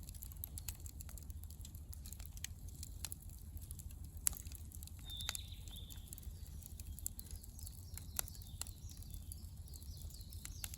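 Wood campfire crackling: irregular small snaps and clicks over a low steady rumble, with a couple of sharper pops, the loudest about four seconds in.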